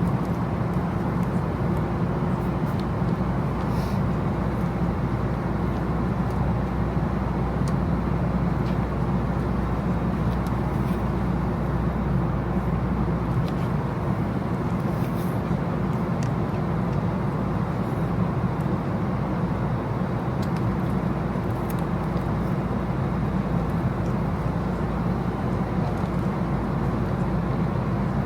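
Steady rumble of a moving road vehicle heard from inside, engine and road noise with no change in pace.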